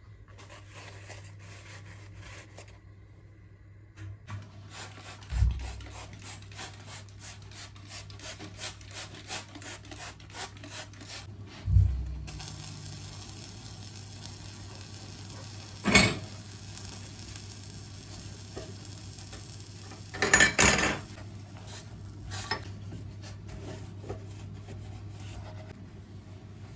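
Kitchen work: a run of quick light scraping clicks, two dull thumps and two sharp clinks of kitchenware, over a steady low hum.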